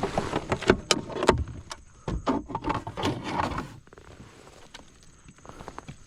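A run of irregular knocks, clicks and rattles for the first three or four seconds, then quieter with a few faint ticks.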